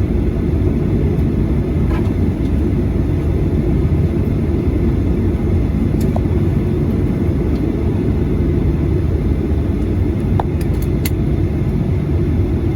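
Steady low rumble inside a Boeing 737-800's cabin with its CFM56 engines running, with a few faint clicks about ten seconds in.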